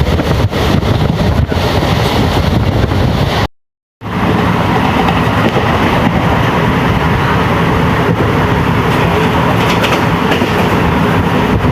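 Running noise of a moving passenger train heard from aboard, a steady loud rush with the wheels clattering on the rails. It cuts out briefly to silence about three and a half seconds in, then carries on.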